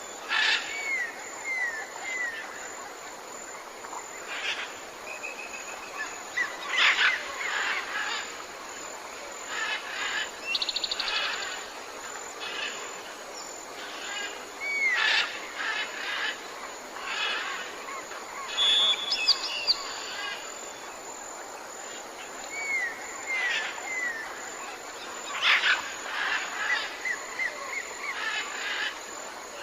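Several birds calling over a steady background hiss: short repeated notes in groups of three or four, harsh calls that recur every several seconds, and a brief buzzy trill.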